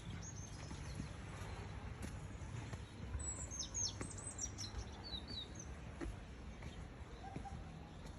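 Small birds chirping: a quick run of high, downward-sliding chirps about three seconds in, then a few fainter ones, over a low steady rumble of outdoor noise.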